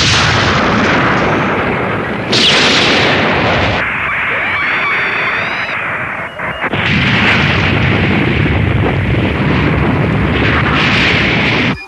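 Cartoon explosion sound effects: a dense, continuous blasting rumble with a brief warbling tone in the middle, cutting off suddenly near the end.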